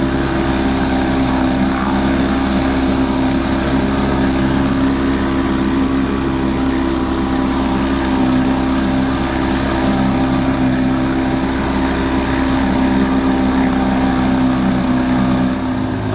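Outboard motor on a small boat running steadily at cruising speed, with water and wind noise under it. Its note changes slightly near the end.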